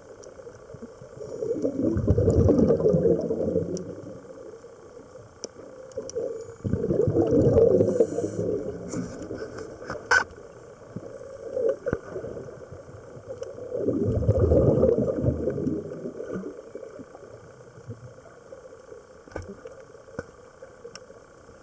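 Scuba diver breathing through a regulator underwater: three long rushes of exhaled bubbles, about six seconds apart, with quieter water noise between.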